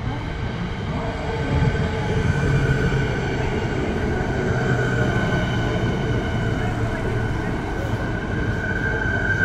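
Electric suburban commuter train pulling in alongside the platform: a steady rumble of the cars with a high, even whine held over it.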